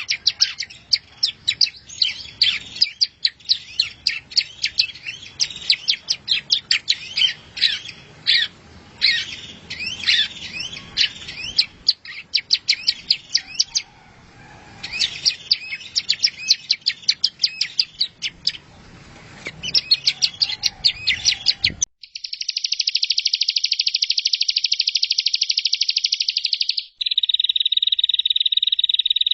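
Songbird masteran recording: rapid, varied chirps and whistled notes, then an abrupt cut to a fast, even trill that switches to a lower, narrower trill near the end.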